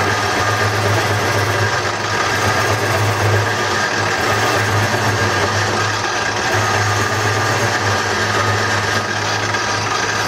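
Wood lathe running steadily, its motor giving a constant hum under an even whir.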